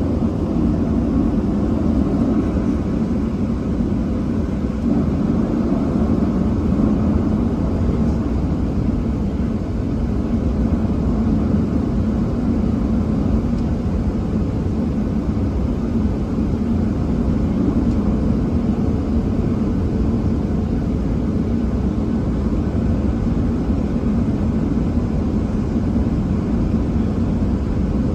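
Steady cabin noise inside a Boeing 737-700, its CFM56-7B jet engines idling while the aircraft holds short of the runway, with a faint steady hum.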